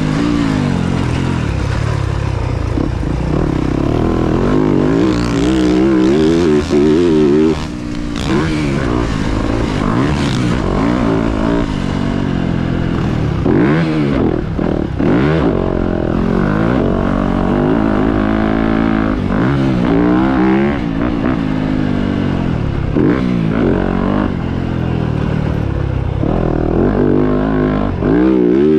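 Dirt bike engine being ridden hard, its pitch climbing and dropping over and over as the throttle is opened and closed and the gears change.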